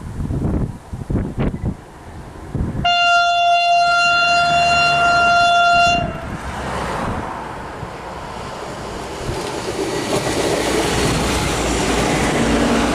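Train horn sounding one steady note for about three seconds, then the rumble of an approaching train building up. Wind buffets the microphone before the horn.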